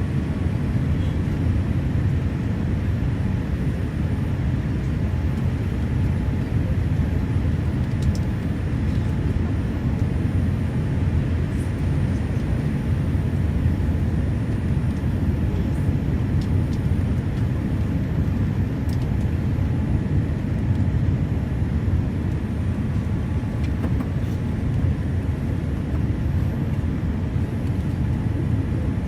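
Steady low rumble of jet engines and airflow heard inside an airliner cabin, even and unbroken, with a few faint ticks.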